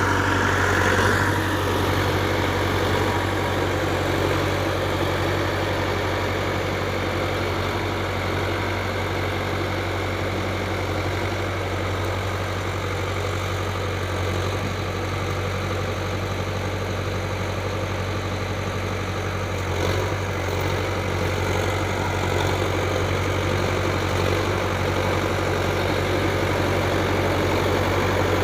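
ACE DI-6565 V2 tractor's diesel engine idling, a steady low drone that holds even throughout.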